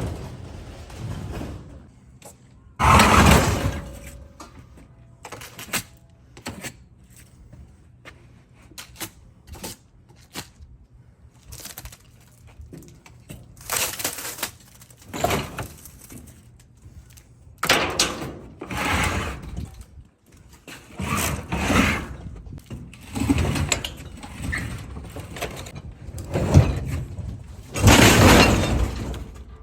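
A refrigerator being manhandled by hand, with irregular bangs, knocks and scraping as it is shoved and dragged. The loudest bursts come about three seconds in and near the end.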